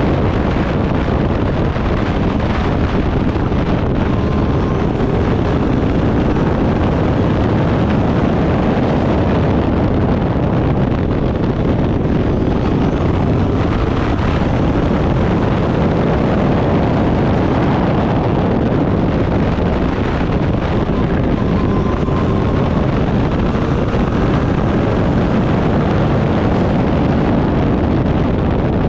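Turbocharged Backdraft Cobra race car running hard at speed, engine noise buried under heavy wind noise on the microphone, with faint rises and falls in pitch every few seconds.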